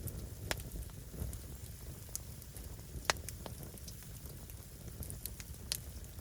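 Firewood burning with a steady low rush, and sharp crackling pops from the wood, three of them loud ones about two and a half seconds apart.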